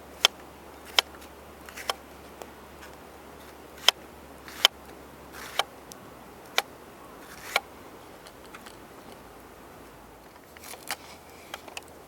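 A series of sharp clicks or taps at uneven intervals, about one a second for the first eight seconds, then a few fainter ones near the end.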